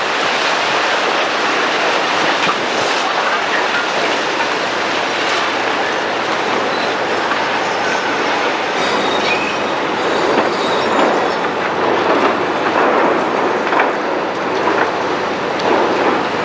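Demolition excavators tearing down a building: a continuous loud racket of crushing concrete and scraping steel, with scattered knocks of breaking rubble.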